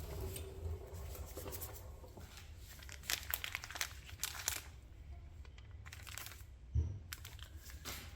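Plastic packaging of a CV boot kit crinkling as it is handled and opened, in bursts, with a single low thump about seven seconds in.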